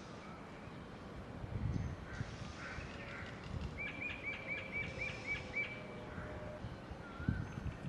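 Small birds calling: a quick run of about eight short chirps in the middle, with a few scattered single calls and some low rumbling thumps against a steady outdoor background.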